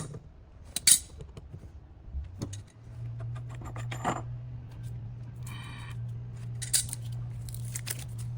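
Light metal clinking and clattering, with a sharp click about a second in and a steady low hum starting about three seconds in.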